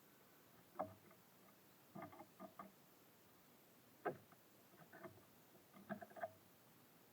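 Irregular sharp taps and knocks at a bird feeder, in small clusters, with two louder single knocks, as small birds land and peck at the seed.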